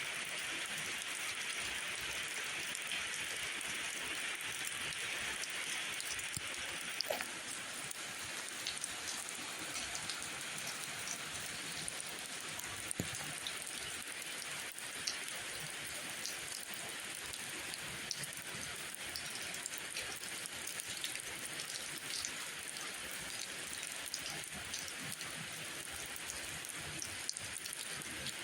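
Steady rain falling, an even hiss with scattered sharper drop ticks, a little stronger in the first few seconds.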